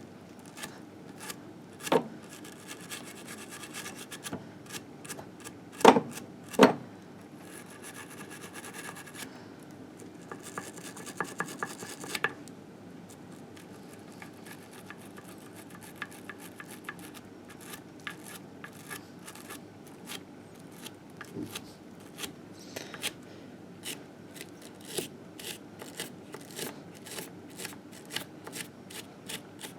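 Hand scraping and scrubbing of grime off a 1958 Harley-Davidson Sportster engine case: a steady run of short rasping strokes. A few sharp knocks stand out, the loudest two close together about six seconds in.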